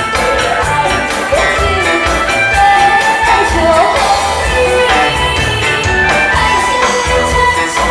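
A singer performing a song over amplified backing music with a steady beat, the voice gliding up and down above the accompaniment.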